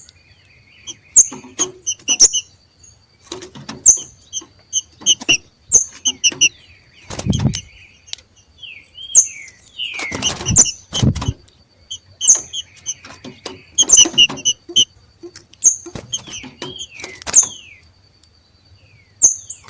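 Green-winged saltators giving the harsh 'macheado' call: short, sharp chips in quick clusters every second or two, an excited call that stirs other saltators to sing. A few dull thumps come in near the middle.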